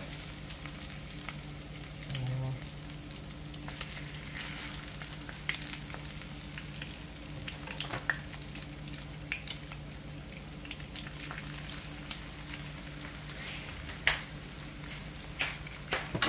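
Pressed green plantain slices, wet from a garlic-salt water dip, frying a second time in shallow oil in a nonstick pan: a steady sizzle with scattered spitting pops, over a faint low hum.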